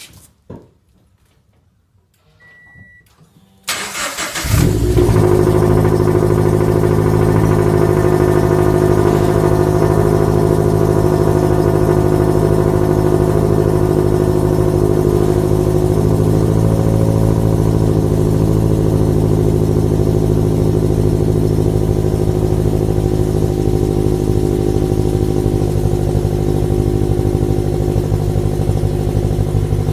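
Toyota 86's FA20 flat-four boxer engine, fitted with an unequal-length exhaust manifold and a TRD muffler, being started from cold. After a short beep, it cranks briefly about four seconds in, catches, and settles into a steady cold idle.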